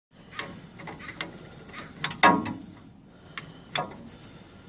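Irregular metallic clicks and clanks from hand tools working on the truck's shock mounts, with one louder, ringing clank a little over two seconds in.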